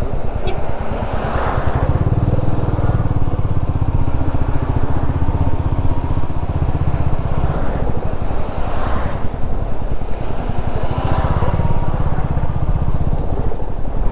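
Royal Enfield Meteor 350's single-cylinder engine running steadily under way, a low, even pulsing beat, with a few brief swells of rushing noise over it.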